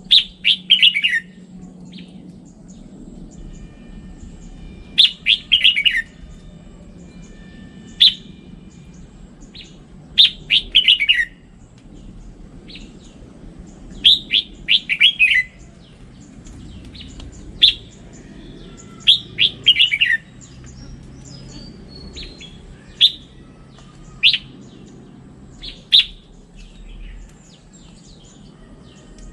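Red-whiskered bulbul singing: short phrases of quick whistled notes, several falling in pitch, repeated every few seconds over a faint low hum.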